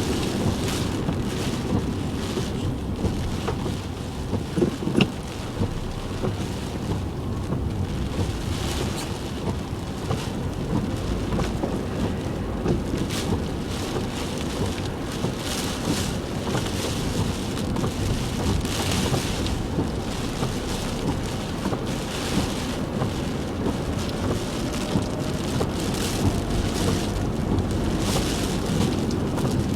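A car driving through heavy typhoon rain: a steady low road and engine rumble under the hiss of rain and spray, which swells and fades every few seconds.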